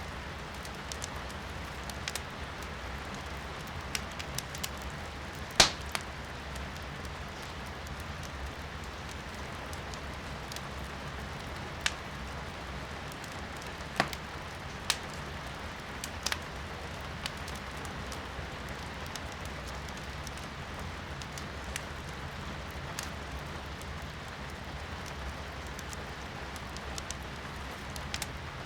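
Firewood burning in a fireplace, crackling with scattered sharp pops, the loudest about six seconds in, over a steady hiss of rain heard from indoors.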